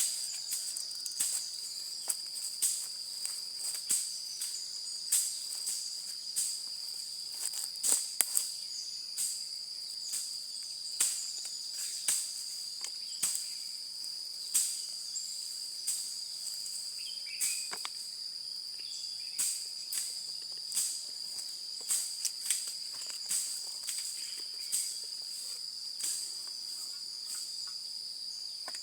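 Insects trilling steadily at one high pitch, with irregular sharp cracks and pops over it, about one or two a second.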